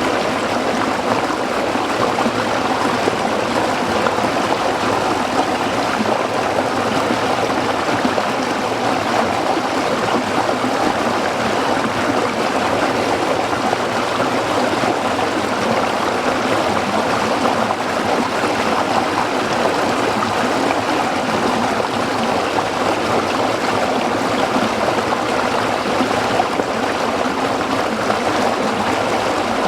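Small stream flowing and trickling over rocks, a steady babbling.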